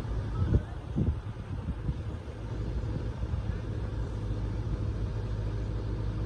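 Excavator's diesel engine running steadily, with two dull knocks about half a second and a second in.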